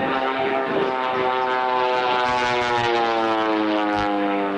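Propeller aircraft flying past, its engine and propeller drone sliding steadily down in pitch as it goes by.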